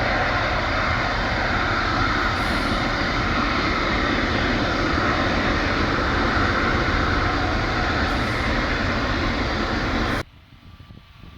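Jet airliner engines, a loud steady noise from a passing plane. It cuts off abruptly about ten seconds in, leaving only faint background.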